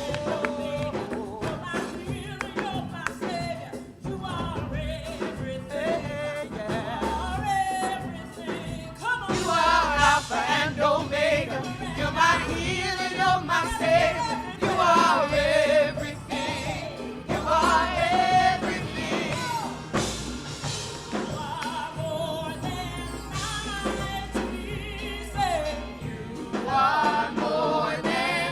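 Gospel music: a singer holding wavering, vibrato-laden notes over instrumental accompaniment with a steady bass.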